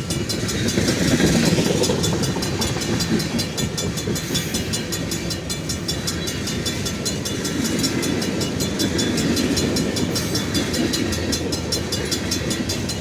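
Train rolling past at close range: a steady rumble of wheels on rail that holds evenly throughout.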